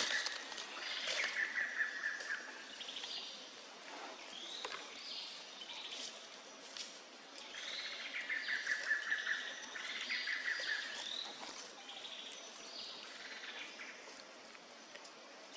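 A bird calling: a phrase of short rising chirps and a falling, rattling trill, given twice about six seconds apart, over steady outdoor background noise.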